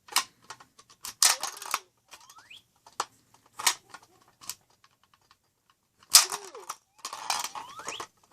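Hard plastic clicks and clattering from a VTech Explore & Learn Helicopter toy being handled, with a few short rising electronic chirps. The clatter is loudest about a second in and again about six seconds in.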